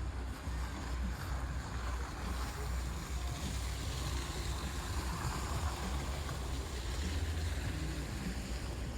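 Wind buffeting the microphone: a steady low rumble, with a hiss that swells in the middle.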